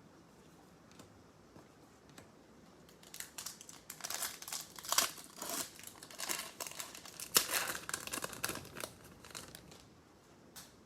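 A foil baseball card pack wrapper being torn open and crinkled, starting about three seconds in and dying down near the end.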